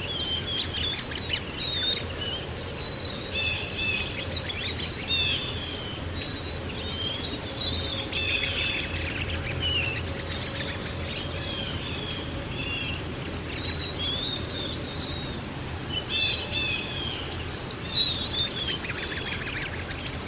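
Several songbirds chirping and warbling together, with many overlapping calls, over a steady background rush. The sound cuts off abruptly at the end.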